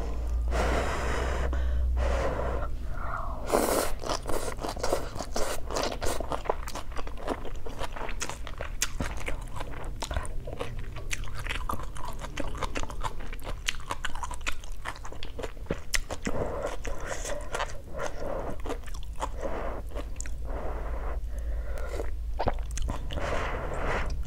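Close-up chewing of a mouthful of crunchy bean sprouts from a sour soup, with many small wet crunches and mouth clicks; a slurp of soup from a spoon comes near the end.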